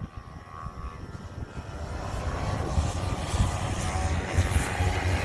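Engines of a field of racing motorcycles approaching, the rumble building steadily louder as the pack closes in on the start/finish line.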